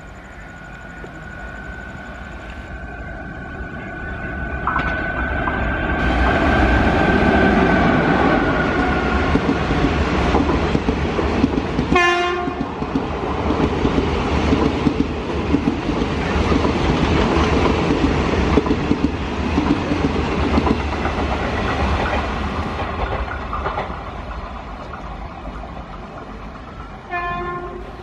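Passenger train hauled by an electric locomotive running past, with a steady whine as it approaches. The rumble and clickety-clack of the coaches build to their loudest as the rake goes by, then fade. A short horn blast sounds about 12 seconds in and another just before the end.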